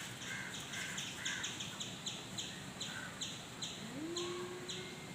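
A bird chirping rapidly and repeatedly, short high chirps about three a second. A low hum rises and then holds near the end.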